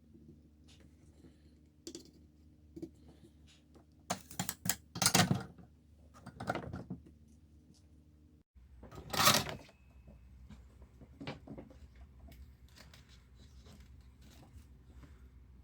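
Handling noises: scattered small clicks and taps, with louder rustling, scraping bursts about four to five seconds in, again around six and a half seconds, and once more around nine seconds, over a low steady hum.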